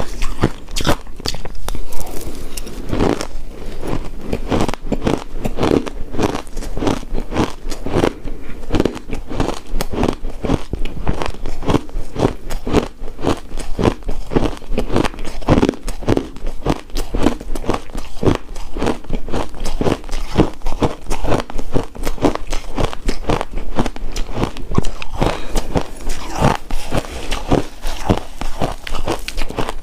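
Close-up chewing and crunching of shaved ice dessert: a steady run of crisp, icy crunches several times a second.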